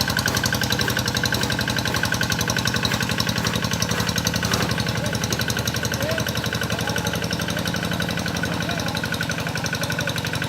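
Rice-paddy ploughing tractor's engine running steadily under load, a fast, even chugging with no let-up.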